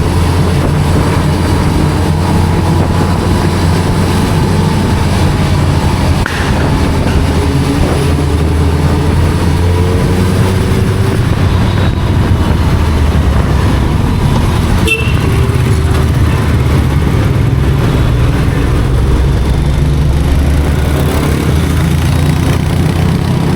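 Sport motorcycle engine running steadily while riding, a deep even drone with rushing wind noise over it.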